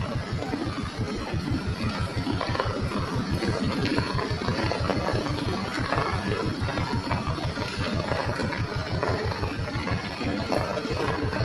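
Steady rain falling, a dense hiss of drops with many small ticks, over a rapid, even low pulsing of about ten beats a second.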